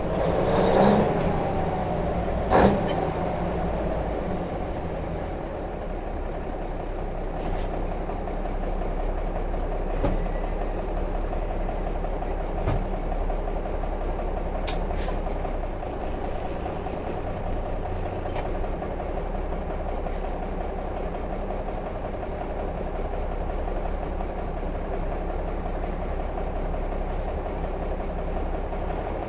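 Cummins diesel of a 1955 Freightliner truck idling steadily, heard from inside the cab, with a couple of sharp clicks in the first few seconds.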